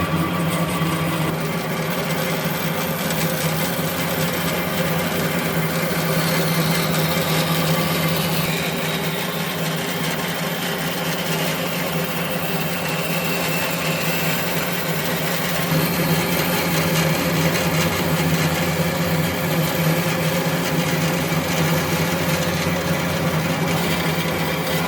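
Electric power tool running steadily on wood, its motor giving a continuous hum.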